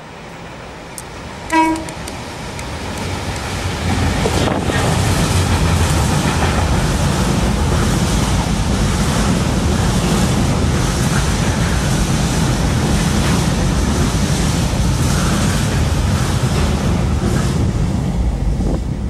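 A diesel-hauled engineering train sounds one short horn toot, then passes close by with a loud, steady rumble of locomotive and wagons on the rails that cuts off suddenly near the end.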